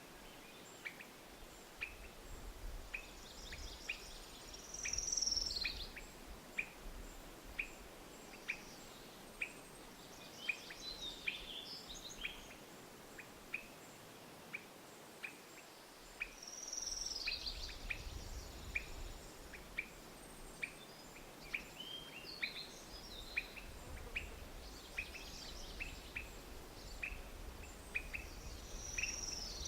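Wild birds calling: short falling song phrases every few seconds over an even series of short high chirps, nearly two a second. A low rumble swells underneath at times.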